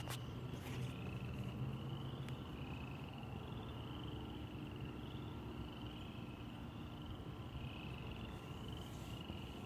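Frogs trilling in a chorus: overlapping, repeated high trills about a second long, some rising slightly, over a steady low background hum.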